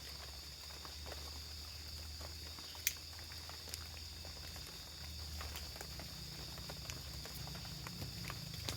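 Rain dripping and pattering, with a steady high-pitched insect chorus behind it and scattered sharp ticks, one louder click about three seconds in.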